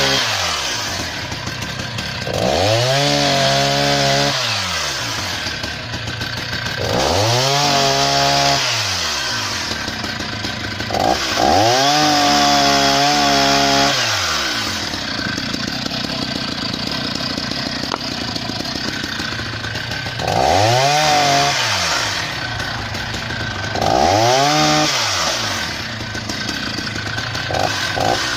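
Husqvarna 480 CD two-stroke chainsaw, freshly rebuilt with a new piston and cylinder and being broken in, revved again and again: the engine climbs to full throttle, holds for a second or two and drops back to idle, about five times, with a few quick blips near the end.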